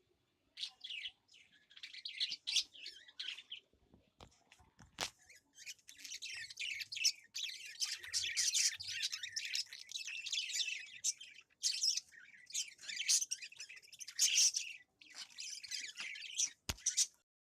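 Small birds chirping busily and continuously, many overlapping calls, with a few sharp clicks or knocks about four to five seconds in and again near the end.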